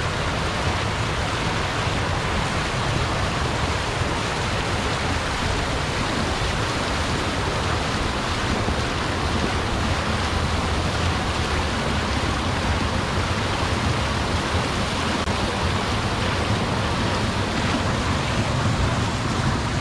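Steady loud rushing noise with a fluttering low rumble, even throughout.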